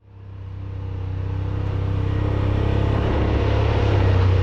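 Yamaha Wolverine RMAX side-by-side engine running at a steady pitch while driving; it fades in and grows gradually louder.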